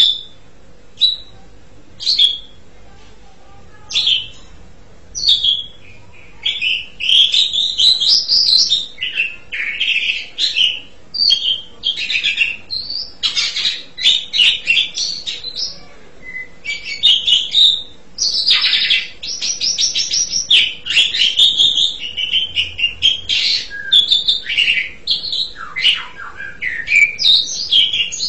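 Asian pied starling (jalak suren) vocalising: short single calls about once a second, then from about six seconds in a long, unbroken run of varied whistles and chattering notes.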